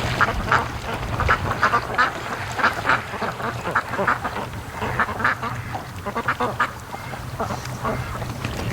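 A flock of domestic ducks quacking in many short, irregular, overlapping calls, over a steady low rumble of wind on the microphone.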